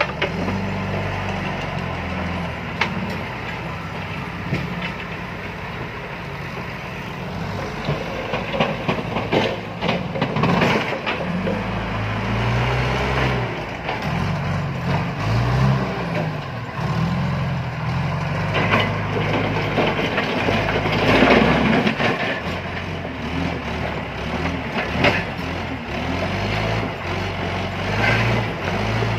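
John Deere 310E backhoe loader's diesel engine working under load, its pitch rising and falling repeatedly as the machine digs and loads, with several bursts of stones clattering as they are scooped and dumped.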